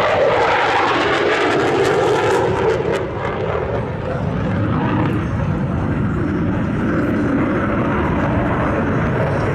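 Loud, steady jet noise from an F-16C Fighting Falcon fighter's engine flying overhead.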